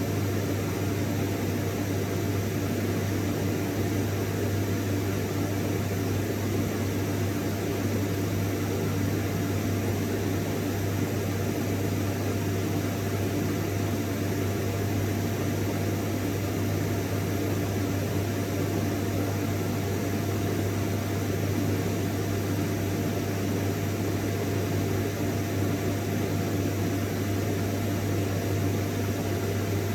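Vacuum cleaner running steadily, a constant motor hum with a rushing-air hiss and a faint steady whine.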